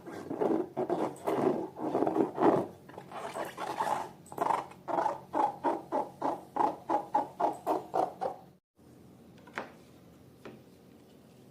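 Slime being squeezed and kneaded by hand, squelching in quick repeated squishes, about three a second, that stop abruptly near the end.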